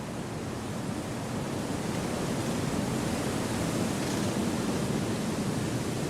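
Wind rushing steadily through forest trees, a smooth rushing noise that slowly swells louder.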